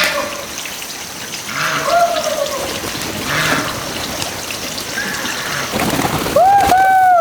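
A bird calling over and over, each call a short clear note that arches or falls slightly, loudest near the end. Splashing or trickling water runs under the calls.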